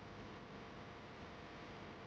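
Near silence: a faint steady background hum.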